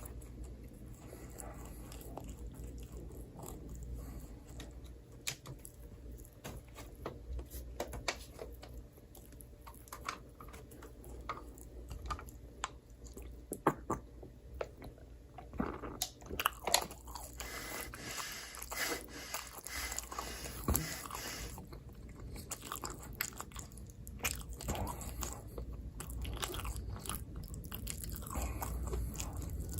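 Close-miked eating of pizza: biting and chewing with many sharp crunches and mouth clicks. A few seconds of hissy rustling come about two-thirds of the way in.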